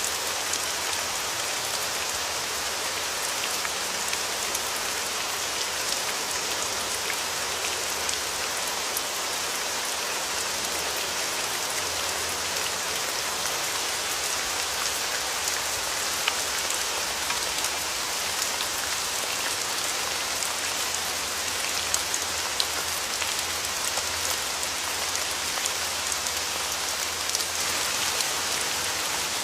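Steady rain falling, a dense hiss with many small drop ticks and no breaks.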